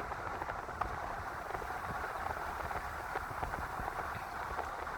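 Steady road and tyre noise of a car driving along, heard from inside the cabin, with a low rumble and a few faint rattles.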